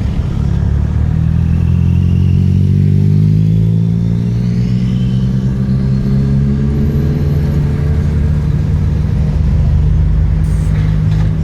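A car engine running close by with a deep, steady note; its pitch rises gently over the first few seconds, then holds.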